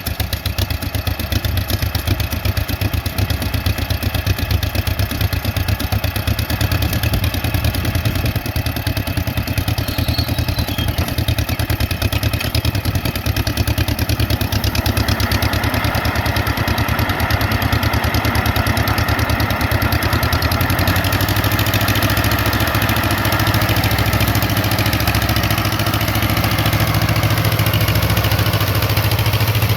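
1963 Yazoo YR60 mower's Wisconsin TJD 18-horsepower air-cooled twin-cylinder engine running steadily, its belt-driven cutting deck mowing grass. The engine note grows brighter about halfway through.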